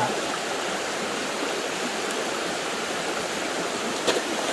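Steady rushing of flowing stream water, with one short knock about four seconds in.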